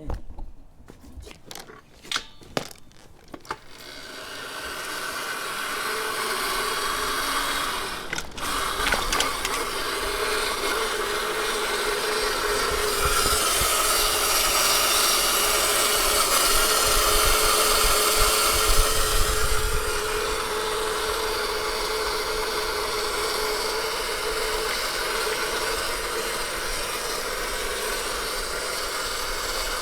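Razor MX500/650 electric dirt bike being ridden: its chain-driven electric motor whines steadily once under way, after a few knocks at the start. About halfway through there is a louder stretch of rushing noise with a low rumble.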